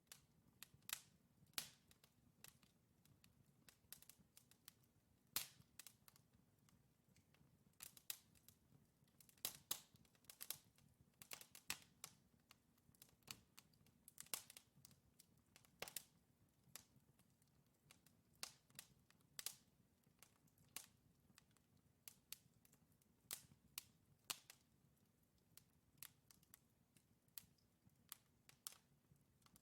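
Burning logs in a wood fireplace crackling, with irregular sharp pops and snaps, some much louder than others, over a faint steady low hum.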